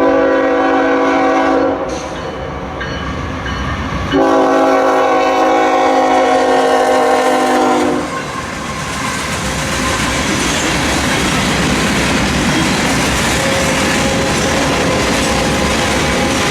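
Diesel locomotive air horn sounding two blasts, a short one and then a longer one, followed by the steady rumble and clatter of the train's wheels passing close by.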